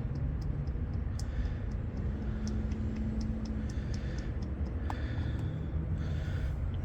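Motor oil pouring from a quart bottle into an engine's oil filler, with faint irregular ticks over a steady low rumble.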